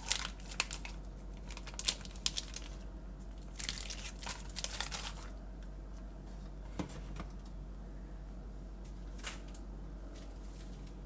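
Plastic wrapping on individually wrapped chicken breasts crinkling and tearing as it is pulled open, in bursts through the first five seconds, then only a few faint ticks.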